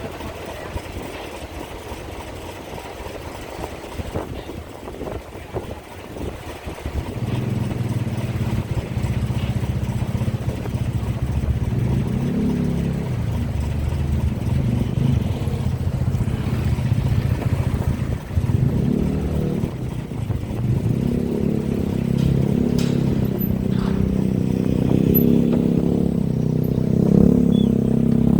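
A large engine starts running about seven seconds in, its pitch shifting up and down and its level growing louder toward the end.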